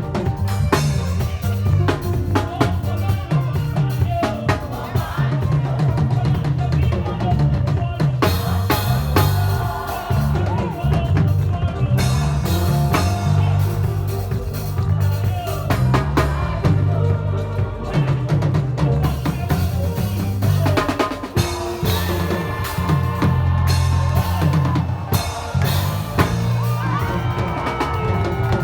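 Live praise music driven by a drum kit, with bass drum, snare and rimshot hits over a low, moving bass line.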